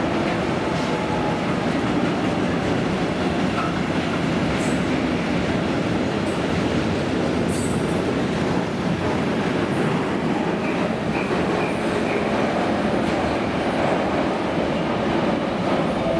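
Train rolling through the station on its track: a steady rumble of wheels on rail with some clatter, and a few brief high wheel squeals.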